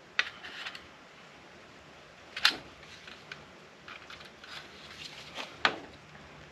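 Scattered clicks and knocks of hands and tools working at the plastic housing and internal parts of an APC battery backup unit. Three sharper knocks stand out: one just after the start, the loudest about two and a half seconds in, and one about five and a half seconds in.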